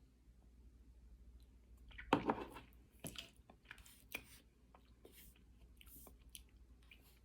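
A person biting into and chewing raw cornstarch: a loud crunch about two seconds in, then sharp crackly chews every second or so.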